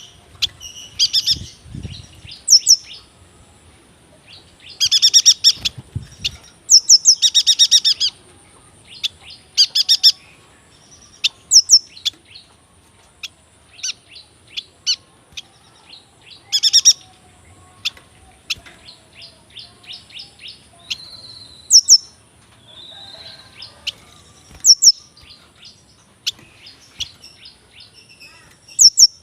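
Yuhina singing its long rolling song: loud, irregular phrases of rapid trills broken by sharp, high chirps.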